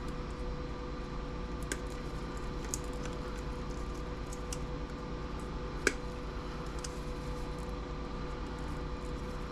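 Steady electrical hum with a few light clicks and taps from small parts and tools being handled during the teardown of an old CRT TV; the sharpest click comes a little past the middle.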